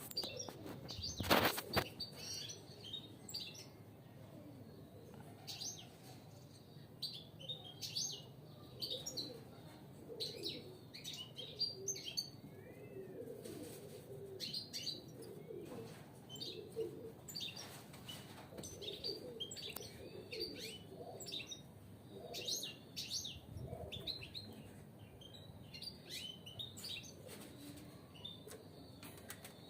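Caged European goldfinches twittering and chirping in quick, scattered phrases, with occasional wing flutters. There is a loud brief burst of noise about a second and a half in.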